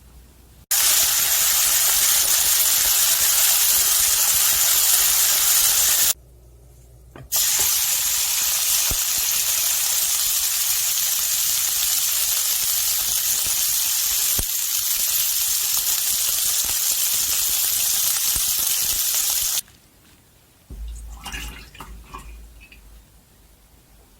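Wagyu top blade steak sizzling in a hot pan, a loud steady hiss. It starts abruptly about a second in, breaks off for about a second, then runs on and stops abruptly, followed by a few faint clicks and handling sounds.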